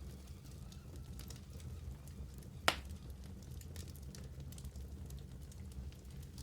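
Fire burning in a fireplace: a steady low rumble of flames with scattered small crackles, and one loud sharp pop a little under halfway through.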